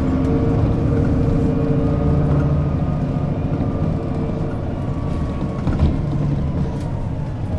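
A vehicle running with a steady low rumble and held motor tones, one faint whine slowly falling in pitch over the last few seconds.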